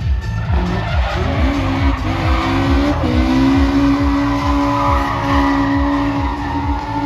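Drift car's engine revving, rising about a second in and again near three seconds, with tyres skidding, over background music with a steady beat.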